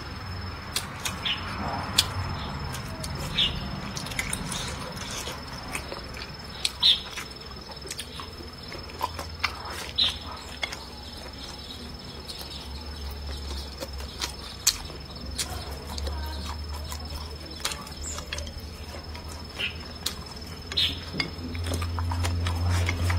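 Close-miked eating sounds: chewing and lip-smacking, with many scattered sharp clicks.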